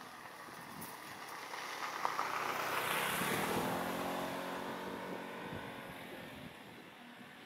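A diesel train on the narrow-gauge sugar-factory railway passing by. Its engine and running noise grow louder to a peak about three seconds in, then fade away.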